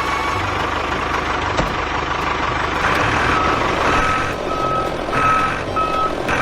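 A vehicle's reversing alarm beeping at one steady pitch, starting about three seconds in, over a steady mechanical running noise.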